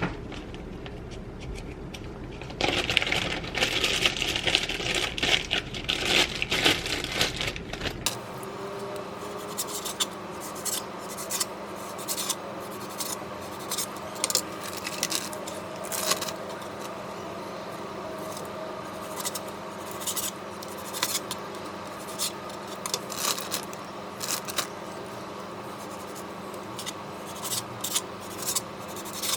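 Kitchen prep on raw chicken thighs: a run of short scrapes and taps of a blade on a cutting board over a steady low hum. It is preceded by a loud rushing noise for about the first eight seconds, which cuts off abruptly.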